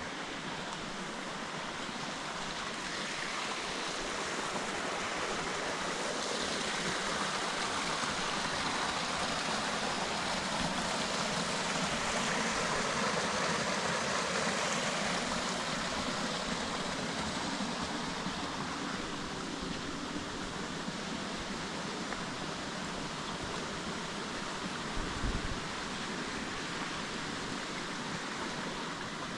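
A forest stream rushing steadily, growing louder toward the middle and easing off again. A brief low thump comes near the end.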